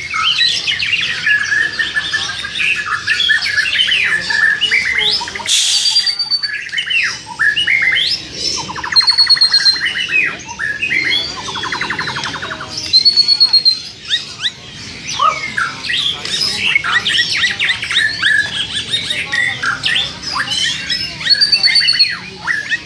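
Many caged songbirds calling at once, a dense chorus of overlapping chirps, squawks and whistles, with a couple of fast trills and a few clear repeated whistled notes.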